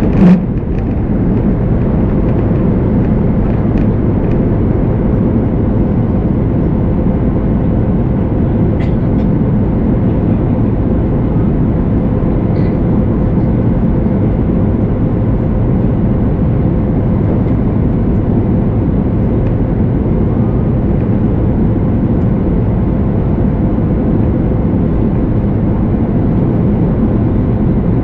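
Inside the cabin of a Boeing 737 MAX 8 in its climb after takeoff: the CFM LEAP-1B engines running steadily at high power, a loud even rush with a constant hum running through it. One brief thump comes just after the start.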